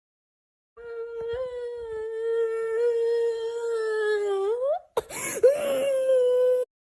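A voice holding one long, steady hummed or wailed note that slides up at the end, then after a short noisy burst a second, shorter held note at about the same pitch.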